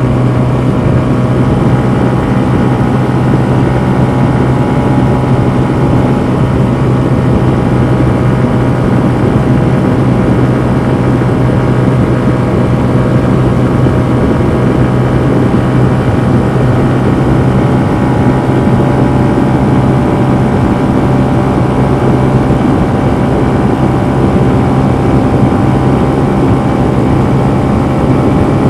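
Honda CB125F's 125cc air-cooled single-cylinder engine running hard at a steady pitch, heard onboard the moving motorcycle under full throttle.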